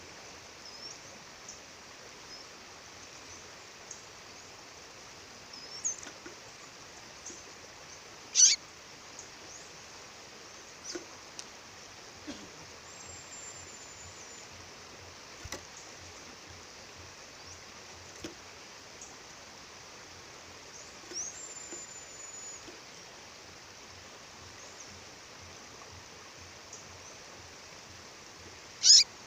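A female songbird calling with scattered short, high chirps over the steady rush of a waterfall. Two louder calls sweep sharply down in pitch, one about eight seconds in and one near the end, and a couple of brief thin whistles come in between.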